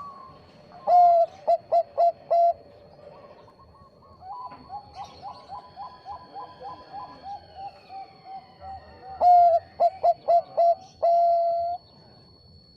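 Zebra dove (Bangkok perkutut) cooing: a loud phrase of short staccato coos about a second in, and another about nine seconds in that ends on a long drawn-out note. A softer, quicker run of coos fills the gap between them.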